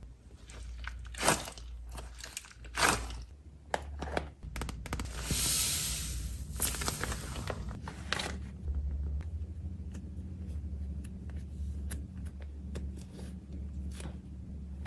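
Close-up handling and packing sounds: clicks and knocks of items being set down, two louder knocks about a second and three seconds in, and a crinkly rustle of packaging around the middle, then softer handling.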